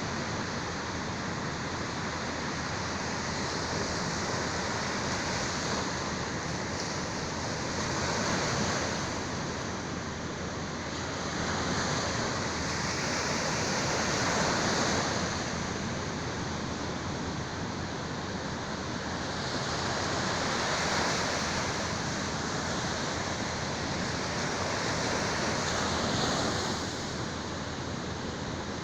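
Sea waves washing onto the shore: a continuous surf noise that swells and fades as each wave comes in, every several seconds.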